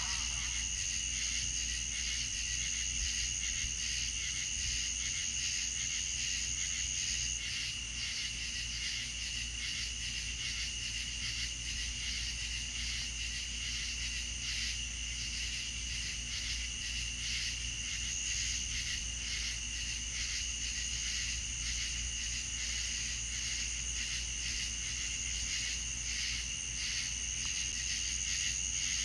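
Insect chorus trilling steadily at two high pitches. The higher trill fades about seven seconds in and returns toward the end, over a constant low rumble.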